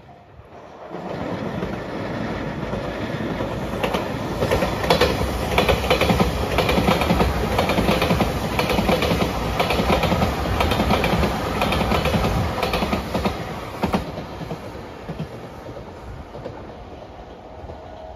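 Passenger train passing close by, its wheels clattering over the rail joints in a quick steady rhythm. The noise builds over the first few seconds, is loudest in the middle, and fades away after the last car has gone by.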